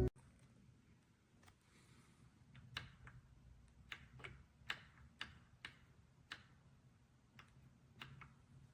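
Faint, irregular light clicks and ticks, about a dozen spread over several seconds, with quiet between them.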